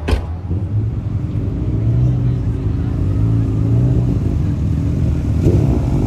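A car engine running with a steady low rumble that gets louder about two seconds in, with a sharp click right at the start.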